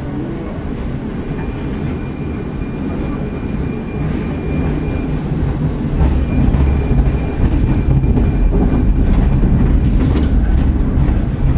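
Tram running along its track, heard from on board: a steady rumble of wheels and motors that grows louder about halfway through, with a faint high whine above it.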